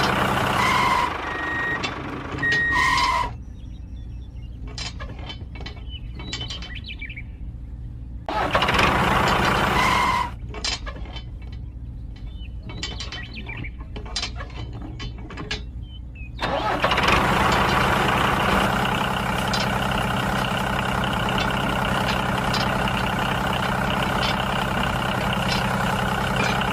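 Engine sound of a miniature toy tractor running steadily. It drops away twice to a quieter stretch with scattered clicks and knocks, then comes back and runs on.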